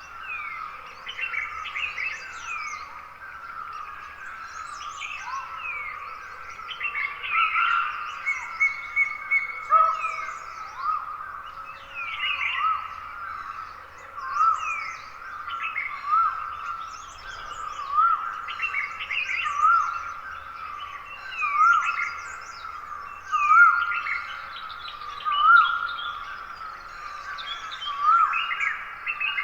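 Morning chorus of several wild forest birds chirping and calling over one another. Through the second half one bird repeats a short rising note about every second and a half.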